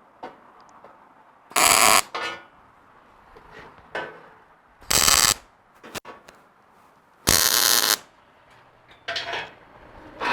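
Welding arc striking for three short tack welds on steel bumper pieces, each a steady crackling buzz of about half a second, the last a little longer, with light metal knocks between them.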